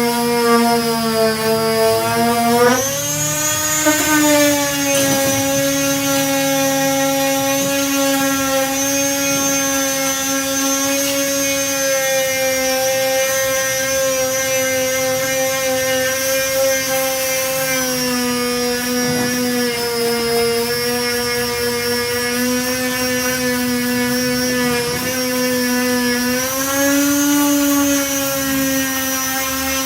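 Electric disc sander with a 240-grit disc running steadily on body filler, giving a strong motor whine. Its pitch climbs a few seconds in, sags for a while past the middle, and climbs again near the end.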